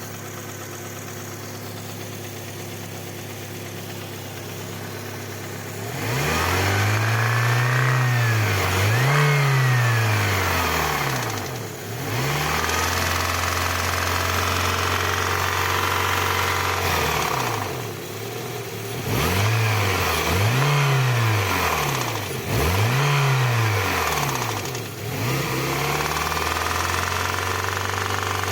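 Car engine idling, then revved in a series of short blips from about six seconds in, rising and falling each time. A knock remains that new bearing shells and new hydraulic lifters have not cured, though the lifter ticking is gone.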